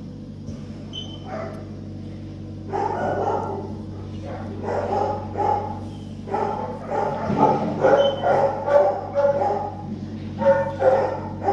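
A dog barking and yapping in quick repeated bursts, starting about three seconds in, over a steady low hum.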